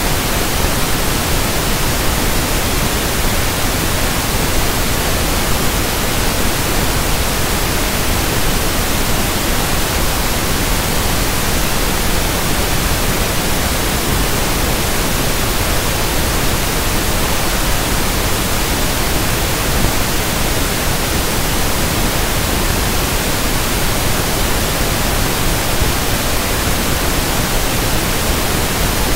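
Steady synthetic pink noise (1/f noise): an even, unchanging hiss across all frequencies.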